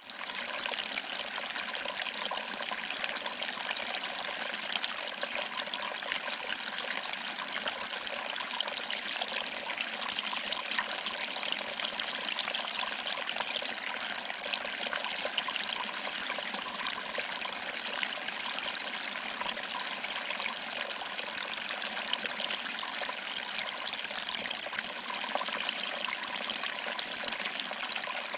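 Small waterfall: water trickling over rocks and splashing into a pool below, a steady, even rush of water.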